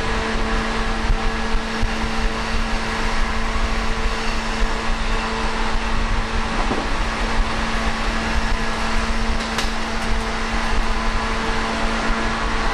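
Steady running noise inside a 185 series electric train carriage at speed, with wheel and rail noise under a constant low hum.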